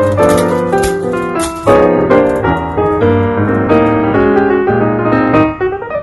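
Background piano music, with many short notes in quick succession over a bass line.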